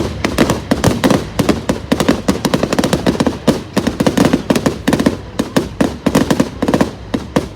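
Fireworks going off: a dense, continuous run of sharp bangs and crackles, several each second.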